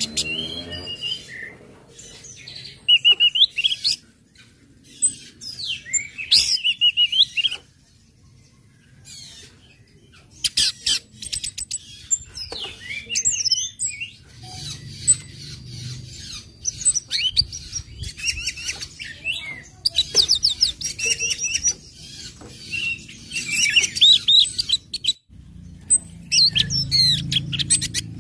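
Orange-headed thrush singing in bursts of high, rapidly varying chirps and fast trills, with short pauses between phrases.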